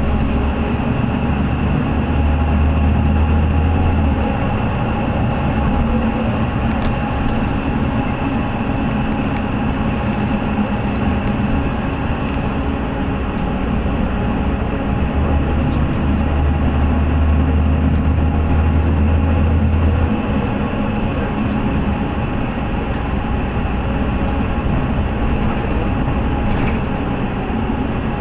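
City bus running along its route, heard from inside the cabin: steady engine and road noise with a deep drone that swells twice, as if under acceleration.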